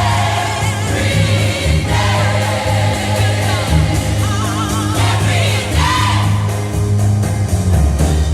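Gospel choir singing over a full band with a strong bass line, a lead voice ornamenting above the choir.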